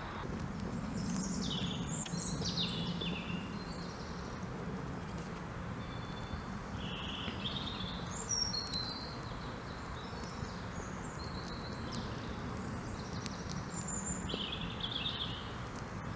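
Songbirds singing short, scattered phrases, several overlapping, over a steady low background noise.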